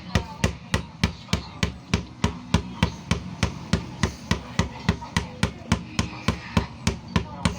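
Rapid, even knocking, like a blade or hammer striking wood, about four knocks a second without a break.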